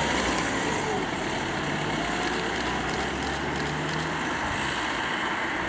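Boeing 737-800's CFM56 jet engines running at low taxi thrust, a steady rumble with a high whine over it.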